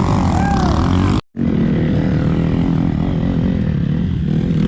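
Vehicle engine running steadily with a low hum. The audio cuts out for a split second about a second in, then the engine carries on.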